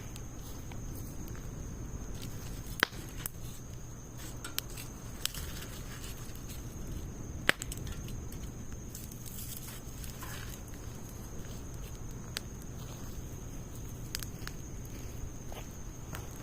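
Wood fire of logs and pine needles burning, crackling with scattered sharp pops, the two loudest about three and seven and a half seconds in, over a steady low background noise.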